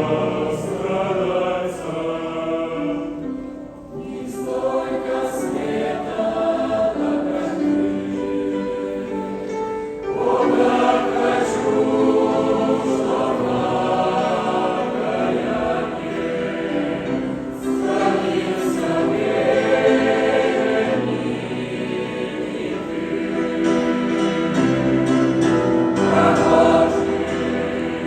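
Choir singing a song, many voices together, with a short drop in loudness about four seconds in.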